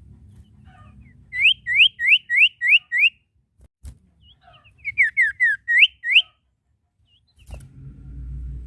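Sirtu singing: a quick run of six loud, clear up-slurred whistles, about three a second. After a pause comes a second phrase of down-slurred notes ending in two rising whistles. Near the end there is a click, then a low hum.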